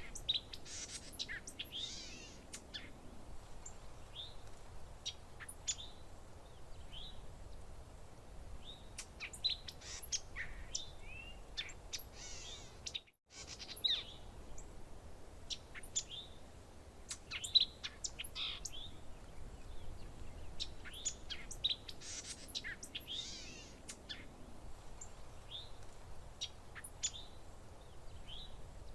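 Several small birds chirping and trilling in short, quick notes over a faint low background rumble, with a brief dropout about halfway through.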